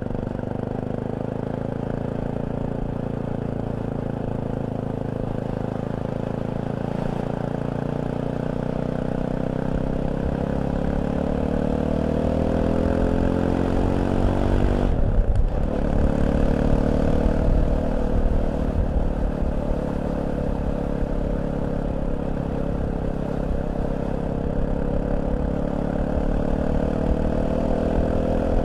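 Fantic Caballero 500's single-cylinder engine pulling on the move. The revs climb, dip briefly at a gear change about fifteen seconds in, then climb again, with wind rumble on the microphone building as speed rises.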